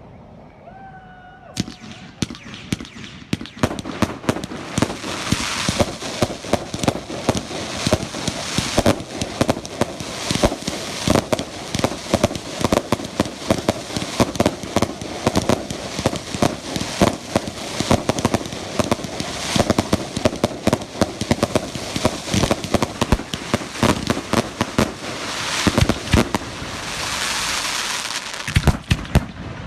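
Fireworks going off in a dense, rapid barrage of sharp bangs and crackles, beginning about a second and a half in, with hissing swells now and then.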